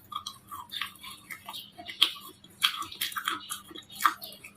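Baked clay bars crunching and crumbling in a run of irregular crisp crackles, with sharper snaps about two seconds in and again near the end.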